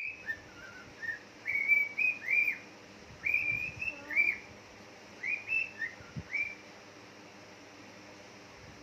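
Short, clear whistled notes that rise and fall, in four quick bursts of two to four notes with short pauses between them, stopping after about six and a half seconds. A faint knock comes just before the whistling stops.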